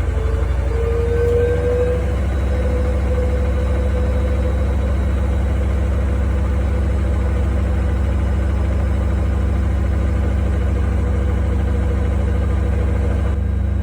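Haier HW90-BP14636 front-loading washing machine spinning on its belt-driven inverter motor. A motor whine rises in pitch over about the first two seconds as the drum speeds up, then holds steady over a constant low hum.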